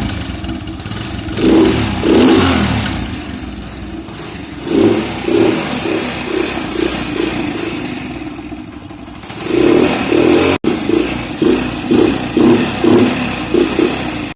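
Hero Honda Splendor's single-cylinder four-stroke engine idling and being revved in repeated throttle blips, quick ones near the end, with the air-filter cap removed to make the stock exhaust sound louder.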